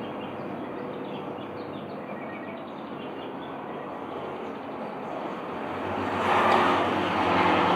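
Steady engine hum of passing traffic, swelling loudly as a vehicle goes by about six seconds in, with a few faint bird chirps in the first few seconds.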